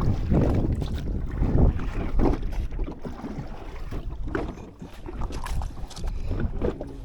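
Wind buffeting the microphone in an uneven low rumble, with water sloshing irregularly around a small drifting boat.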